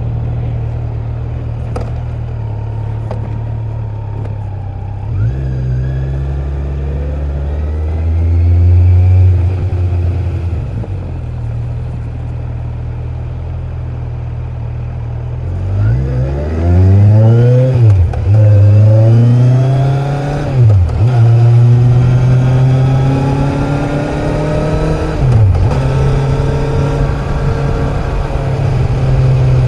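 Kawasaki Z900's inline-four engine running steadily at first, then revving up through the gears, its pitch climbing and dropping sharply at each upshift, with a quick run of shifts in the middle, before settling into a steady high-revving cruise.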